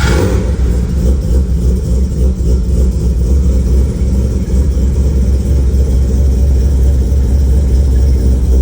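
Naturally aspirated Mazda 20B three-rotor rotary engine in an RX-7 catching on a cold start as the starter cranking stops, then running loud and steady at idle.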